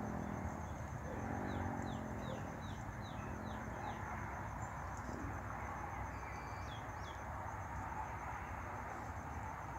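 A small songbird singing a quick run of about seven short, high, downward-slurred notes, then two more a few seconds later, over a steady outdoor hiss.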